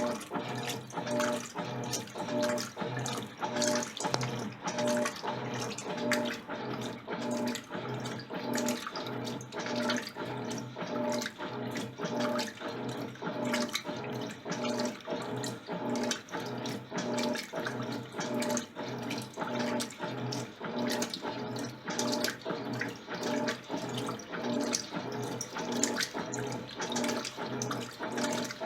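Electrolux LTC10 top-loading washing machine in its wash phase: the agitator churns the jeans load back and forth in water, a motor hum and sloshing pulsing evenly a bit more than once a second.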